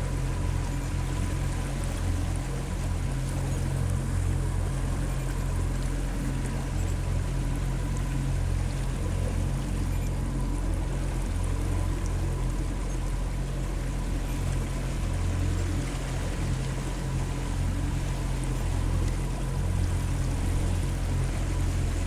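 Small boat's motor running steadily under way upstream, with river water rushing and splashing along the hull.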